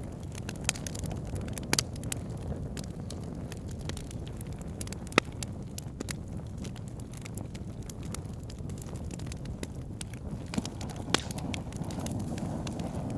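Wood fire burning in a fireplace: a steady low rumble of flames with scattered sharp crackles and pops, the loudest pop about five seconds in.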